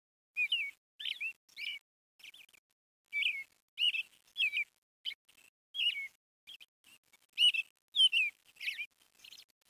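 A songbird singing: a string of short, high whistled notes and chirps with quick slurs up and down, about two a second.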